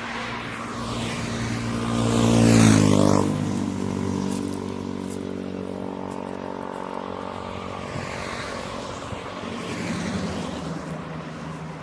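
A motor vehicle passes close by. It is loudest about two and a half seconds in, and its engine pitch drops as it goes past. Engine sound carries on afterwards, with another smaller swell of a passing vehicle near the end.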